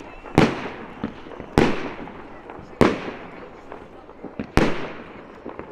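Aerial firework shells bursting at close range: four loud bangs a little over a second apart, each trailing off in a fading echo, with small crackles and pops between them.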